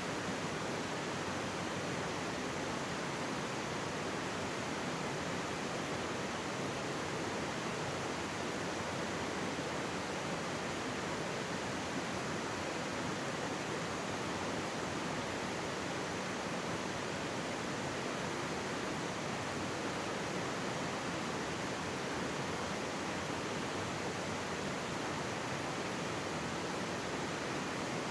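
Mountain stream flowing close by: a steady, even rush of water with no breaks.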